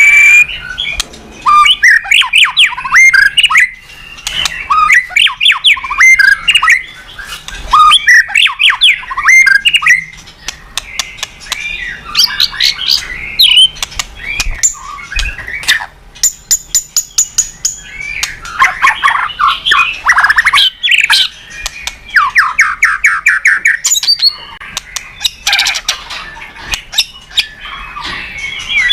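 White-rumped shama singing continuously: a loud, varied run of rapid whistled phrases, harsh chatters and fast trills, with only brief pauses.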